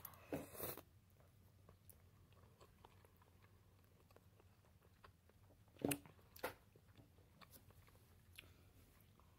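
A person chewing food close to the microphone, with a few short, sharp mouth sounds near the start and two more about six seconds in; otherwise faint.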